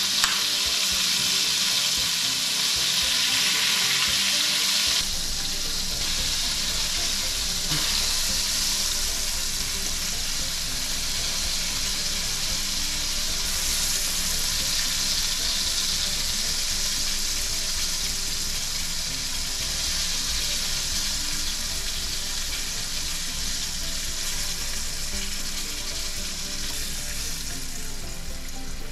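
Breaded venison steaks deep-frying in a skillet of hot oil: a steady sizzling hiss.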